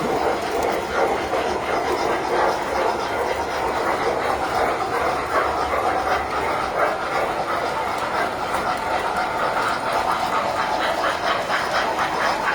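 Tinplate model trains running on the layout's track: a steady rolling rumble with a fast, even clicking from the wheels on the rails, the clicking growing plainer in the second half.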